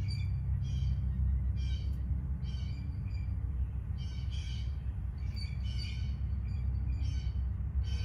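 A bird calling in short, repeated high chirps, roughly one a second, over a steady low rumble.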